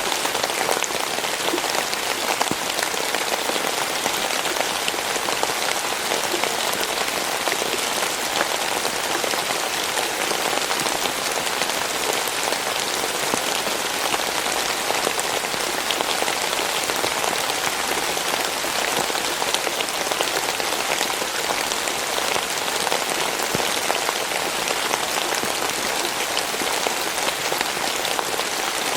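Steady rain falling, many fine drops pattering on a surface in a dense, even hiss with no change in strength.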